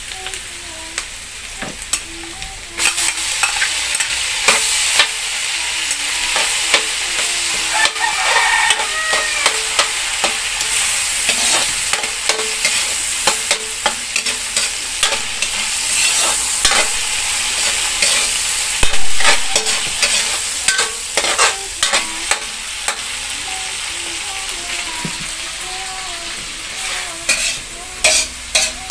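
Corned beef sizzling as it fries in a steel wok, stirred and scraped with a utensil that clicks and knocks against the pan. The knocks come in a quick run near the end.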